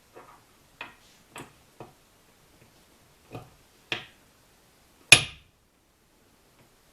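Metal engine parts and tools being handled during an engine rebuild: a string of irregular light clicks and knocks. The last and loudest, about five seconds in, has a brief metallic ring.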